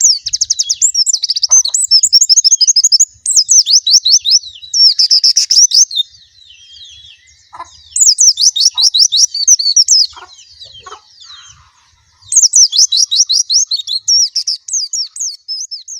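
A white-eye (pleci) singing. Its song comes in bursts of rapid, high chirps a few seconds long, with two short lulls of fainter twittering in between.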